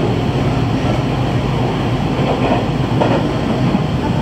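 Steady running rumble of a JR train, heard from inside the passenger car as it rolls along.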